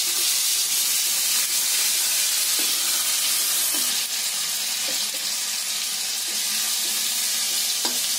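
Green coriander, ginger and garlic paste sizzling in hot oil in a kadhai while a steel spatula stirs it, with a few light clicks of the spatula against the pan.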